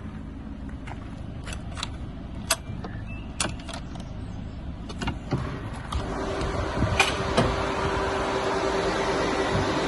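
Inside or around a Renault Master van: a run of sharp clicks over a low steady rumble, then about six seconds in a steady hum with rushing air starts and grows louder.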